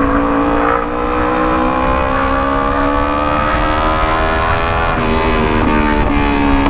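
Kawasaki Ninja 250 parallel-twin engine running through an aftermarket Racefit full-system exhaust, its pitch slowly rising for about four seconds and then dropping, followed by a few sharp exhaust pops.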